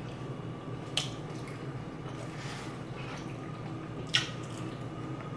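Close-miked eating sounds of a person chewing honey garlic chicken wings: soft wet mouth noises with two sharp smacks, one about a second in and one about four seconds in.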